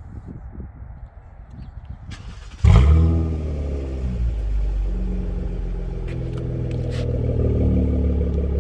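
2020 Toyota Camry XSE's 3.5-litre V6, fitted with an exhaust delete, starting about two and a half seconds in with a loud flare. The revs fall away over a second or so and settle into a steady idle.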